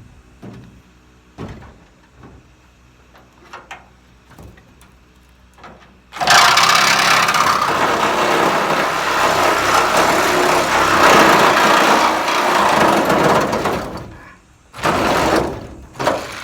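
A power cutting tool cuts through the sheet-metal wall of a pickup truck bed. After a few light knocks, a loud harsh cutting noise starts suddenly about six seconds in and runs about seven seconds. Two shorter cuts follow near the end.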